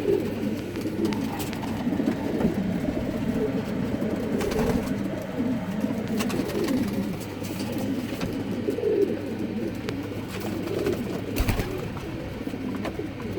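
Racing pigeons cooing, many overlapping low warbling coos that run on without a break, with a few faint knocks.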